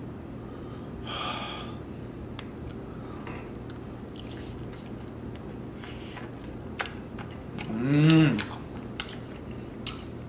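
Close-up chewing and biting of a person eating chicken wings, with small wet mouth clicks over a faint steady hum. About eight seconds in comes a short hummed vocal sound that rises and falls in pitch, the loudest moment.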